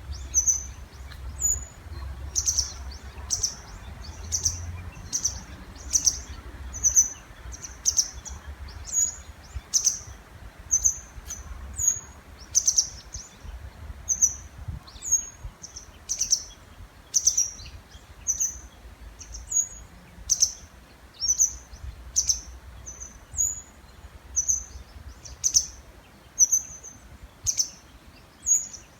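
Songbirds in the breeding season calling back and forth, short high chirps repeated about once a second.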